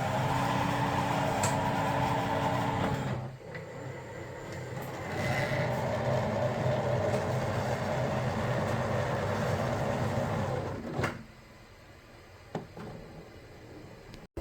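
Bambu Lab P2S 3D printer running at the start of a print: its fans and motors whirring with steady humming tones. The whirr dips about three seconds in, picks up again, then stops with a click about eleven seconds in, leaving a much quieter hum.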